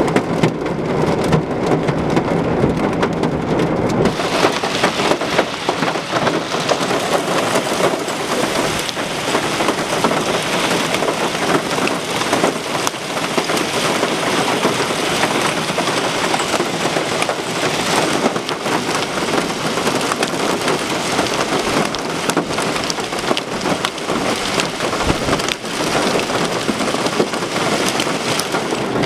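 Hail pelting down in a dense, steady clatter of countless small impacts, getting heavier about four seconds in.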